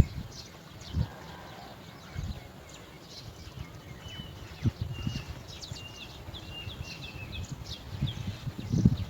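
A bird's short high calls, repeated about eight times in the middle, over irregular low knocks and bumps that are loudest at the start and near the end.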